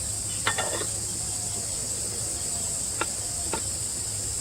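Steady, high-pitched insect chorus of crickets or cicadas in the forest, with a few short clicks, a quick cluster about half a second in and two more near the end.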